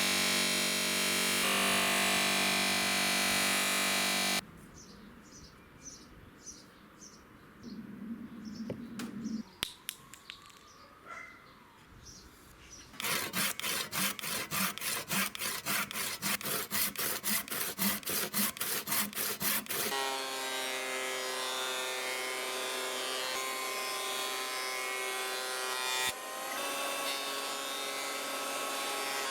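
Workshop tool sounds in turn. A power tool runs loudly and stops about four seconds in, leaving a quieter stretch with faint bird chirps. Then come rhythmic hand-tool strokes at about three a second, then a motor running steadily.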